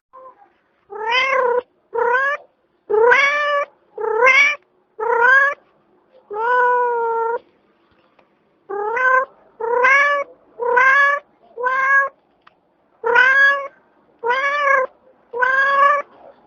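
A cat meowing over and over: about a dozen short meows, most rising in pitch, with one longer, flatter meow and a brief pause partway through.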